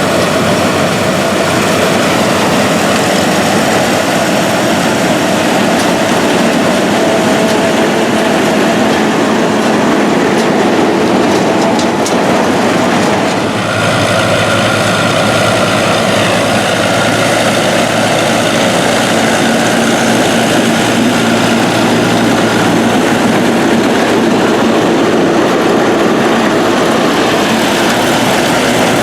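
Vintage farm machinery running steadily: engines with the mechanical clatter of harvesting equipment. The sound changes abruptly about halfway through, as from one machine to another.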